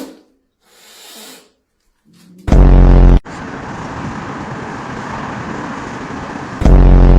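A loud, distorted buzz lasting under a second, then a steady hiss, then the same buzz again near the end.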